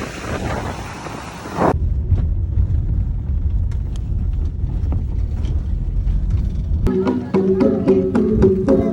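Wind and surf noise on the microphone, which cuts off after a second and a half. A low rumble with scattered faint clicks follows. Near the end, music with steady notes and quick percussive strikes starts up.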